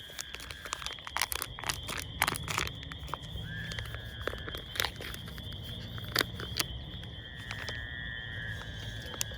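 Crickets chirring steadily, with scattered sharp clicks and crinkling of close handling, busiest in the first half.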